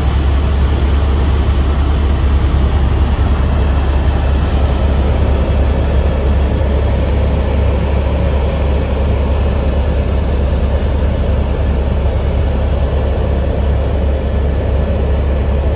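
Helicopter engine and rotor noise heard from inside the cabin in flight: a loud, steady low drone that does not change.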